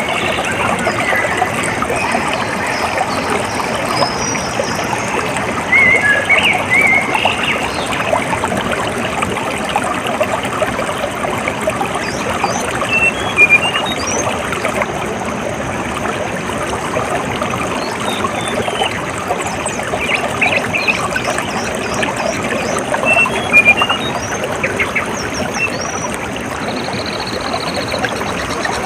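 Water trickling and splashing steadily, with short bird chirps breaking in now and then, in small clusters.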